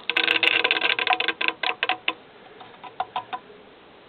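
Rapid rattling and clicking inside a rusty steel motorcycle gas tank, with a metallic ring, for about two seconds. Three more clicks follow about three seconds in.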